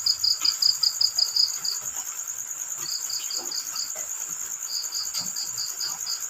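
Crickets calling: one high, steady pulsing trill runs on, while a second cricket chirps in three bouts of quick pulses, about six a second. Faint scattered ticks sound underneath.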